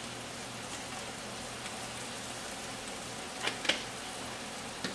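Chicken and cauliflower rice sizzling steadily in pans on a hot stovetop, with a few light clicks about three and a half seconds in.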